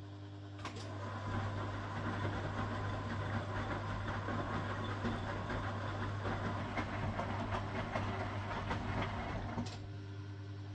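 1969 Zanker VA520 washing machine running: over a steady low hum, a click about half a second in starts about nine seconds of louder churning and rattling from its Hanning gear motor turning the drum. Another click near the end stops it and leaves only the hum.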